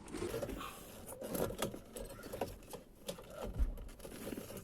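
Parts of a fuel pump assembly being handled and fitted into their housing: irregular light clicks and knocks, with one dull thump about three and a half seconds in.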